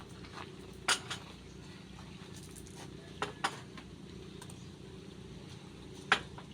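About five sharp clinks of tableware, two near the start, two in the middle and the loudest near the end, over a steady low hum.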